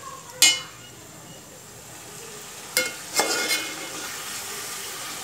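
Chicken pieces sizzling in hot oil and ghee in an aluminium pot while a metal spoon stirs them. The spoon clanks against the pot about half a second in and again three times around three seconds in, each clank ringing briefly over the steady sizzle.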